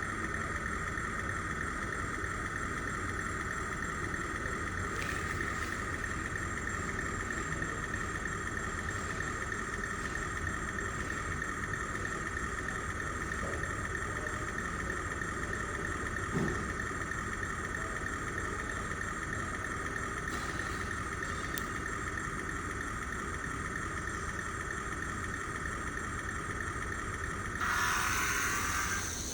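Steady high whine from a 1/64-scale mini RC truck running continuously, with a brief louder, brighter stretch near the end.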